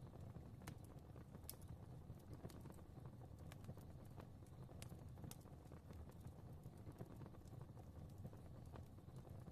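Fire crackling softly in a fireplace: irregular small pops and snaps, several a second, over a low steady rumble of the flames.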